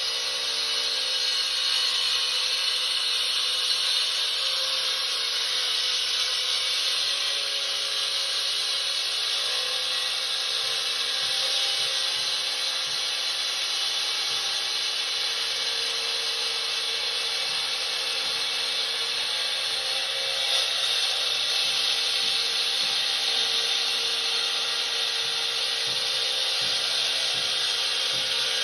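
Handheld concrete saw running steadily at a constant speed, without a break.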